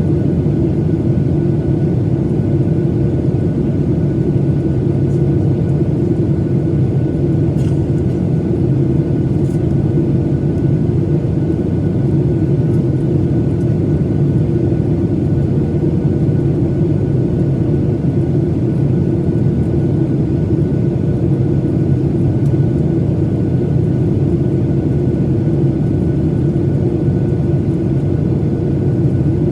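Steady cabin noise of a Boeing 737-900ER in flight: the drone of its CFM56-7B engines and air rushing past the fuselage, with a faint steady hum running through it.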